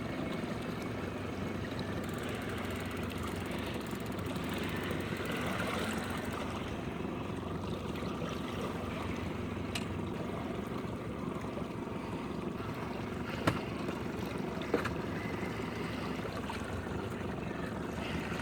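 A boat's outboard motor running steadily over water noise, with two sharp clicks about a second apart near the middle.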